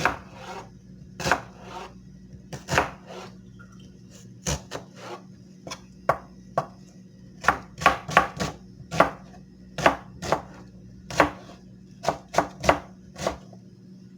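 A knife blade worked in about two dozen short, quick strokes at uneven spacing, some coming in fast clusters.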